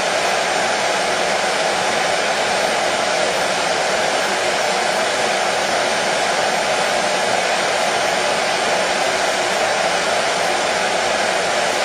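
Hair dryer running steadily, a constant even whoosh of blown air with a low hum, played as a soothing sleep sound for colicky babies.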